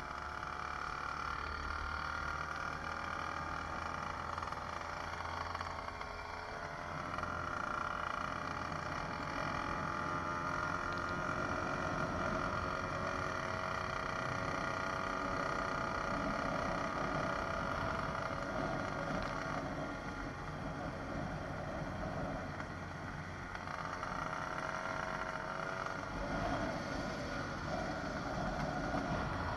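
A 66cc two-stroke motorized-bicycle engine running steadily at riding speed, its pitch wavering a little as the throttle changes.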